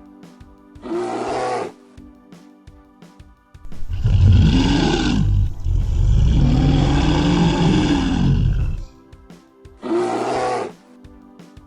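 Lion roaring: one long deep roar starting about four seconds in and lasting about five seconds, with a brief dip partway through, over soft background music.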